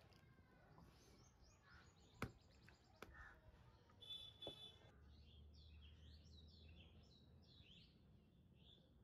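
Faint birds chirping many times in quick succession during the second half, over a quiet outdoor background. A little after two seconds in there is one sharp click, followed by a couple of lighter clicks.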